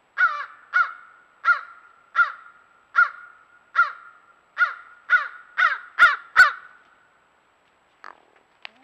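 Crow cawing: a series of about eleven caws, coming faster toward the end before stopping.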